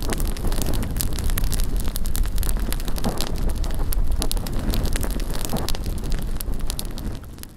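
Large wood bonfire burning with many quick crackles and pops, with wind rumbling on the microphone. It fades near the end.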